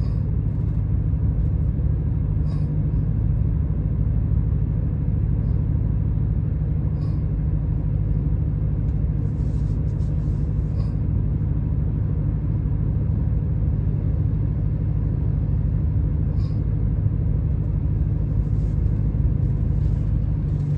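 BMW E92 M3's 4.0-litre V8 and exhaust droning steadily at light cruise, heard from inside the cabin.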